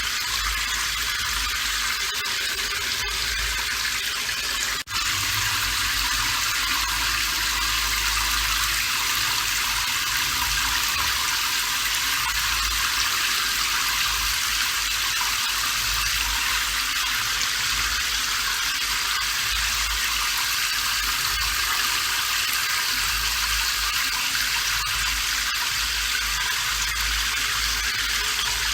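Steady heavy rain, a dense even hiss, with a momentary dropout about five seconds in.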